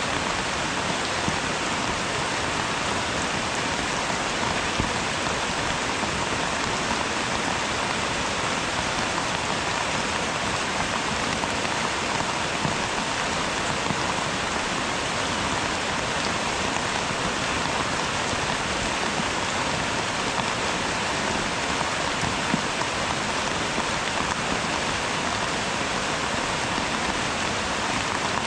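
Steady rainfall, an even hiss with a few louder drops ticking through it.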